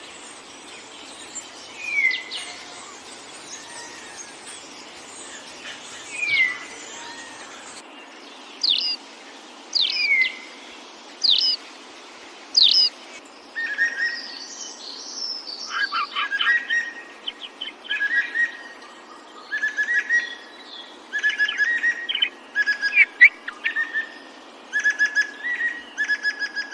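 Songbirds calling. First come a few separate down-slurred whistles about every two seconds, then sharp falling notes about once a second. From about halfway there is a busy run of quick chattering phrases.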